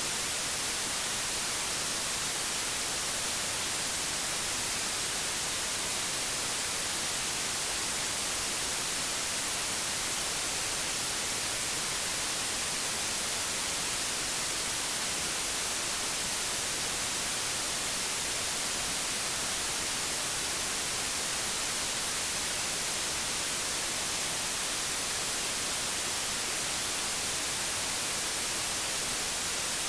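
Analogue television static: a steady, even hiss, strongest in the high frequencies, with no change in level.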